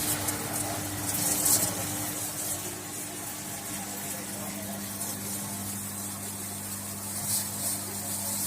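Hansgrohe Axor PowderRain overhead rain shower running: a steady hiss of fine spray, with a steady low hum under it.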